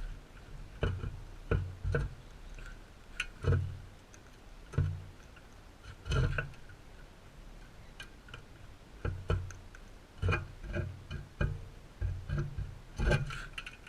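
Crimson rosellas feeding close up: irregular sharp clicks and knocks from beaks pecking and cracking seed on the feeder, many with a dull low thump.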